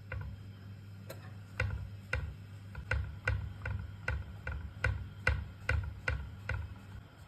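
A series of about a dozen light clicks, roughly two a second, starting about a second in and stopping near the end, over a steady low hum.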